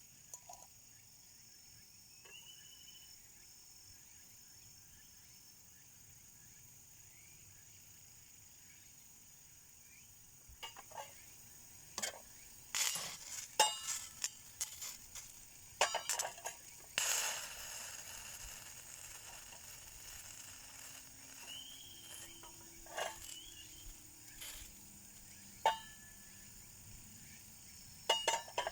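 Scattered clinks and knocks of tableware or camp cookware being handled, several in a row about ten seconds in and a few more near the end, over a faint steady drone of insects.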